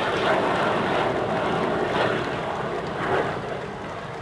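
Jet noise from Red Arrows BAE Hawk T1 jets flying a display pass: a steady roar that slowly fades near the end as the aircraft draw away.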